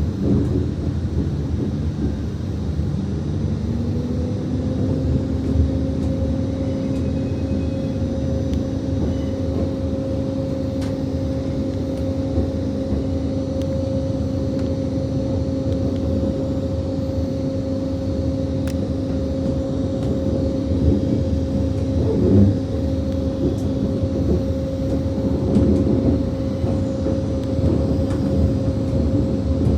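CrossCountry Voyager diesel train heard from on board as it gets under way: its underfloor engine note rises over the first few seconds and then holds steady over the rumble of the train running, with a few louder bumps in the second half.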